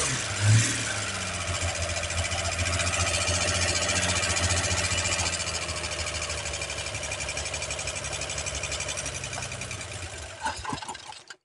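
Holden 202 inline-six engine, freshly fitted with a new camshaft and lifters, running at a fast idle with an even pulsing beat; the sound fades away near the end.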